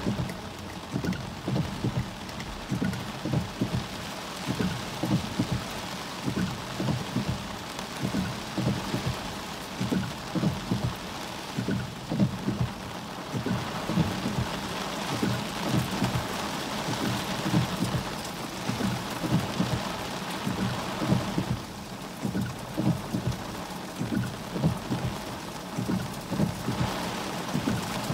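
Heavy rain pelting a car's roof and windshield, heard from inside the car, with a dense run of irregular low thuds under the hiss. The hiss swells for several seconds about halfway through.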